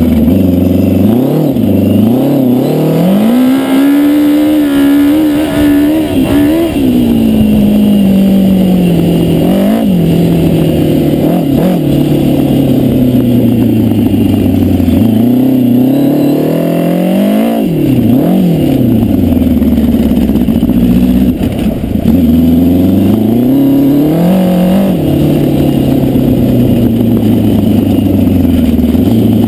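Yamaha FJ1100 air-cooled inline-four motorcycle engine in a home-made dune buggy, running at idle and being revved up and down repeatedly, with one longer held rise about three to seven seconds in and several short throttle blips later.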